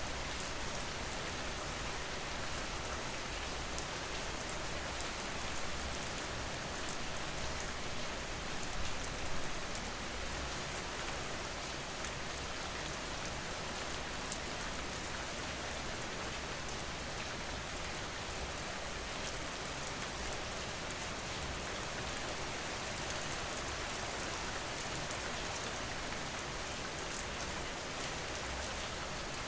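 Steady rain falling on a surface, an even hiss with a fine crackle of individual drops; it swells slightly about nine seconds in.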